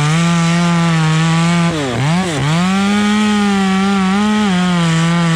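Two-stroke chainsaw running at high revs, its pitch holding steady. About two seconds in it drops sharply and climbs straight back, and it falls away at the end.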